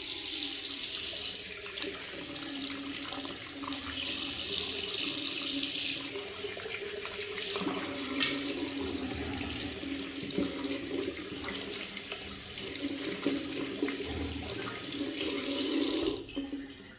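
Water running from a tap into a sink as the washing machine's clogged water-inlet filter is rinsed under the stream to wash out the debris. The flow is steady and stops abruptly near the end.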